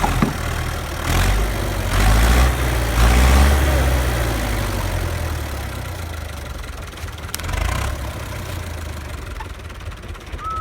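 Tractor engine running, louder for the first few seconds with a rise in pitch, then gradually quieter.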